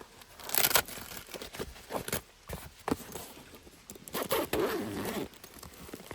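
Handling noises of gear: a short rasp just after the start, a few sharp knocks, and a longer scraping rustle about four seconds in.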